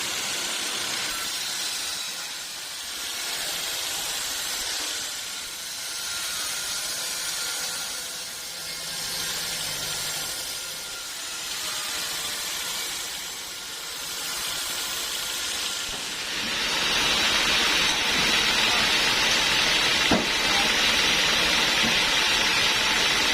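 Homemade band sawmill cutting a teak log: a steady hissing machine noise that swells and fades every two or three seconds, then grows louder about two-thirds of the way in.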